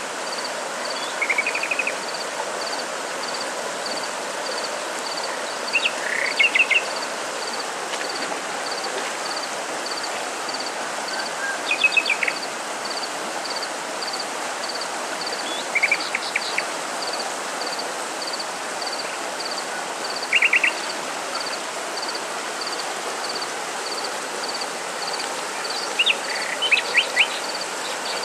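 Outdoor nature ambience: a steady rushing background, a high insect chirp repeating about twice a second, and a songbird giving short phrases of a few quick notes every four to six seconds.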